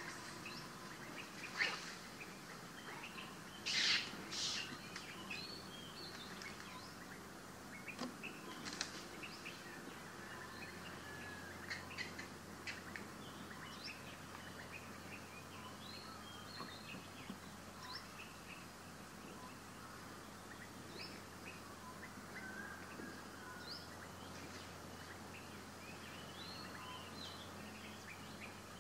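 Birds chirping in the background: many short, high chirps scattered throughout, with a few louder shrill calls in the first five seconds.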